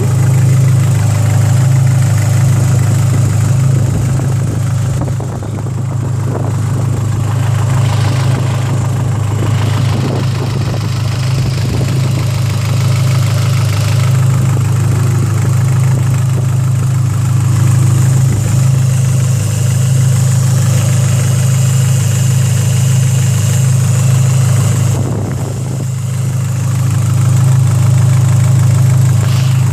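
Dodge SRT-4's turbocharged 2.4-litre four-cylinder engine idling steadily, dipping slightly in loudness twice.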